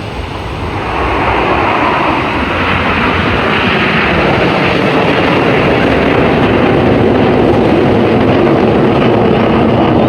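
Jet noise from a Blue Angels F/A-18 Super Hornet flying over, a loud steady rush that swells about a second in and then holds.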